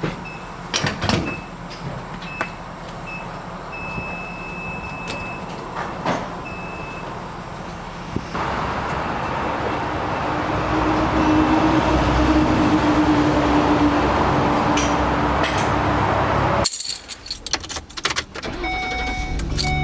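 Keys jangling and a short repeated warning chime beeping, then about eight seconds in the camper van's engine starts and runs steadily, newly repaired of a second-cylinder misfire with a new ignition coil and spark plug. The engine sound cuts off abruptly near the end.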